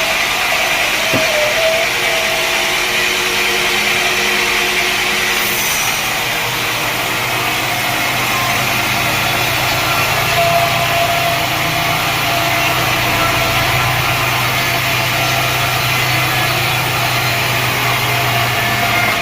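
Sawmill machinery running steadily, with a constant engine-like hum that strengthens about a third of the way through.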